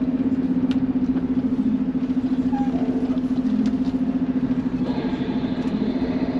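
Semi truck's diesel engine running steadily at low revs, heard from inside the cab, with a fast, even pulse.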